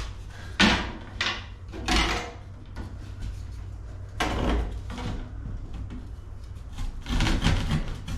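Pressed-wood trim pieces being handled: a few irregular wooden knocks and scrapes, with a longer scrape about halfway through and a cluster of knocks near the end.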